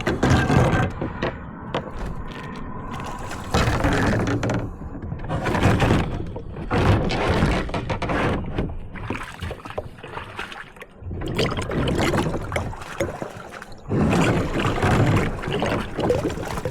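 Water splashing and sloshing in irregular bursts around a swamped kayak as it is handled and emptied.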